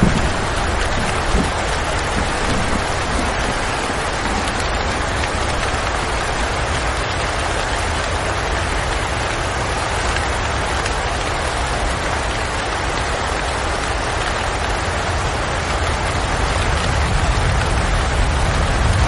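Steady rain falling, an even, dense hiss of drops. A low rumble grows slightly louder near the end.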